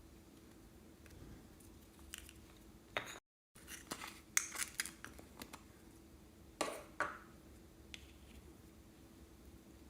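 Slime being handled and mixed, heard as scattered short crackles and pops. They come thickest in the middle of the clip, with a louder squelch a little later. Just before the busy stretch the sound cuts out for a moment.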